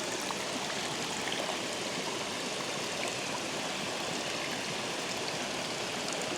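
Water rushing steadily through a dam spillway, an even, unbroken rush.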